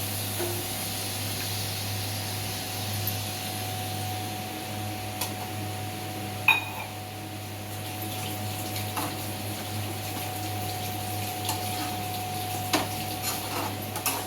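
Ground fennel-and-pepper masala, loosened with water, being poured and scraped from its jar into a pan of chicken, over a steady hiss and low hum. A few sharp clinks of metal on the vessel come through, the loudest about halfway through.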